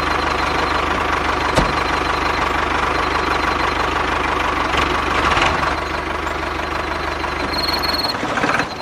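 An engine idling steadily with a fast, even low pulsing. There is a single sharp click about a second and a half in, and the low pulsing stops about a second before the end.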